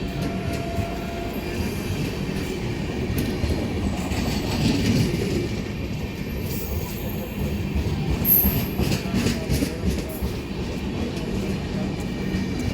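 Express passenger train running on the rails, heard from on board: a steady rumble of wheels with knocks over rail joints and a brief high wheel squeal about eight seconds in.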